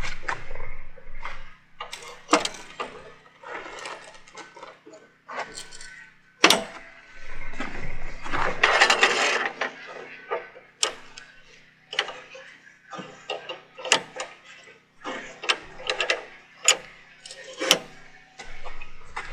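Irregular clicks, clanks and knocks of objects being handled, with a longer scraping rustle about eight seconds in.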